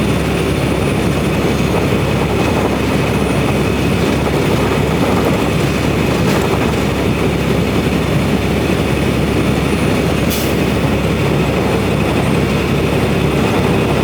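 Steady low drone of a semi truck's engine and road noise heard inside the cab while driving, with a short high hiss about ten seconds in.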